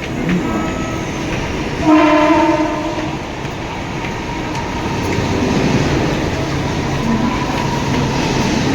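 Mumbai suburban electric local train running, a steady loud rumble. Its horn sounds once for about a second, about two seconds in.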